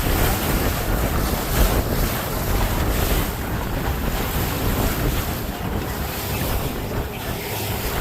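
Wind buffeting the microphone on a moving boat, over a steady rush of water and waves.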